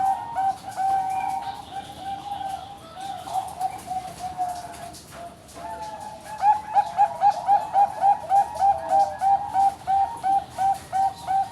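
Bangkok perkutut (zebra dove) singing its cooing song, a string of short repeated notes. The notes falter and fade near the middle, then pick up again about six seconds in with a quick, louder run that settles into an even series.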